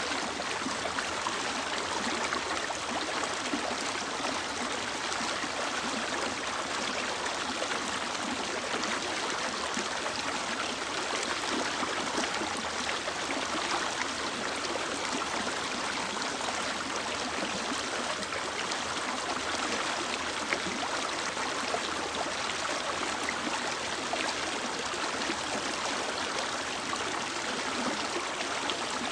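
Mountain river water running steadily over rocks, an even rushing with no breaks.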